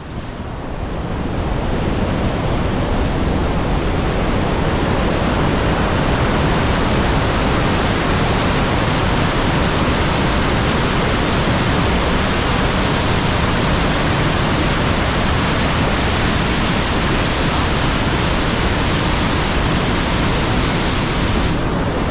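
The Rhine Falls' mass of water crashing down, a loud, steady rush of noise that swells up over the first couple of seconds and then holds even.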